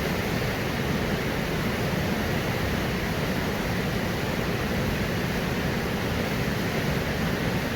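Steady rushing of river water flowing past the mill, an even noise with no breaks.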